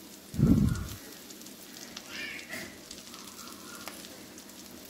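Oil frying faintly in a kadai under a heap of freshly added moringa leaves, a steady low sizzle. A dull low thump about half a second in is the loudest sound.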